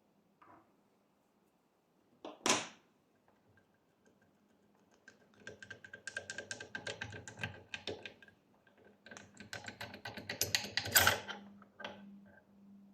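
Two bursts of rapid, irregular clicking and clatter from hand tools working on metal parts, with a single sharp knock about two and a half seconds in.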